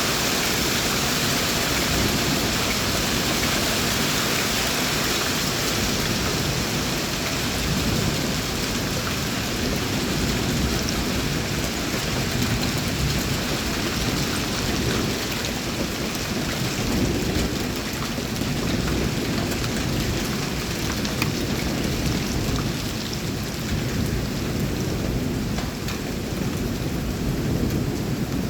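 Heavy rain with strong wind: a dense, steady rush of rain with faint scattered drop ticks.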